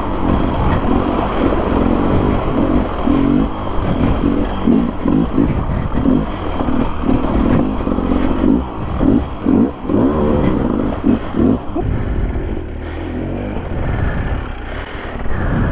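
Enduro dirt bike engine running under load while being ridden along a rough trail, its note rising and falling unevenly with the throttle, easing off a little about twelve seconds in.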